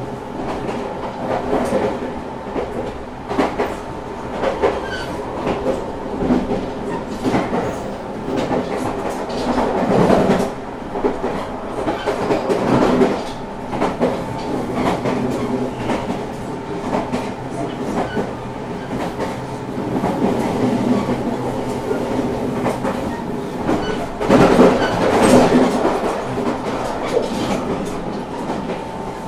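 Running sound inside a JR Shikoku 8000 series electric express train at speed: a steady drone with several held tones, broken by irregular clacks of the wheels over the rail joints. The noise swells louder about ten seconds in and again near the end.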